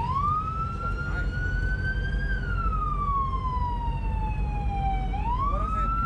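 Police car siren in wail mode: one slow rise, a long fall over about three seconds, then a rise again near the end, over a low rumble of traffic or engines.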